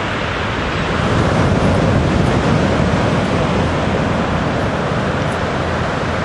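Steady ocean surf, swelling a little about a second in and easing off after about three seconds.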